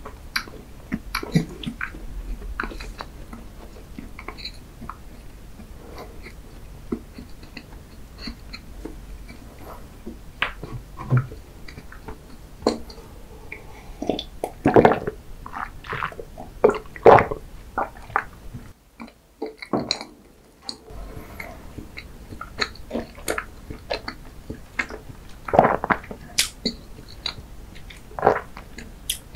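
Close-miked chewing of a soft chocolate-glazed cake donut: wet, sticky mouth clicks and smacks. A little before the middle come a few louder gulps of a drink, then a brief hush before the chewing resumes.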